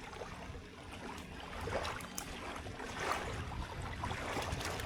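Wind rumbling on the microphone over a steady outdoor wash, with a few light clicks and taps scattered through.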